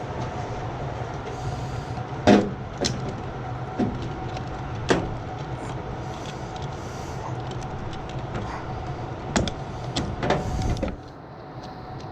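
Steady low hum of running machinery, broken by a series of sharp metallic clanks and clicks as parts are handled and fitted back together; the hum cuts off suddenly near the end.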